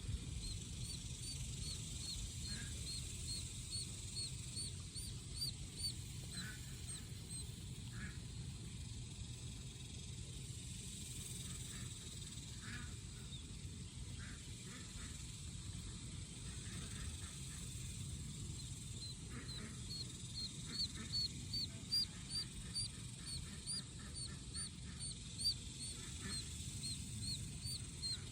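Day-old duckling peeping: runs of short, high chirps, about three a second, that pause through the middle stretch and start again, over a low steady rumble.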